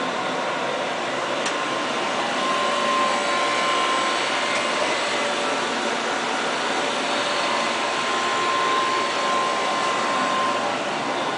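Dry-cleaning plant machinery running with a steady mechanical noise, a faint high whine held through most of it.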